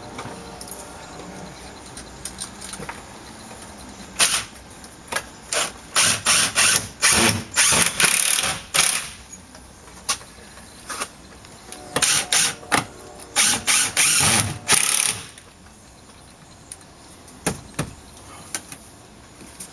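Power drill run in short bursts, each lasting a fraction of a second, in three main clusters with pauses between them.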